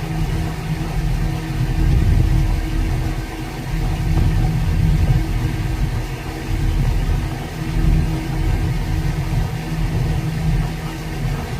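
Hyundai three-piece-boom excavator's diesel engine running under load, its level swelling and easing every second or two as the hydraulics work to roll a heavy river boulder.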